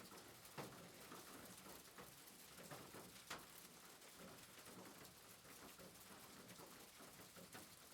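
Faint soft rain pattering steadily, with a couple of sharper ticks about half a second in and about three seconds in.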